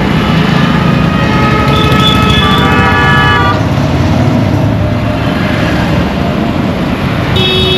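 Dense road traffic, engines running in a steady rumble, with vehicle horns honking: several horns overlapping from about one and a half to three and a half seconds in, and another short honk near the end.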